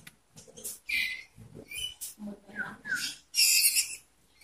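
Songbirds calling in short, scattered bursts: a few brief whistled chirps mixed with harsh, hissy high calls.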